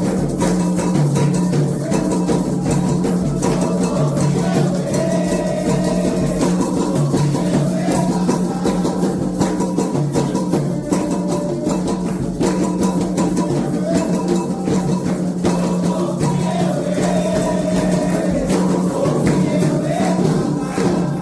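Candomblé ritual music: hand drums and shakers playing a fast, dense rhythm, with a voice singing a wavering melodic line at times.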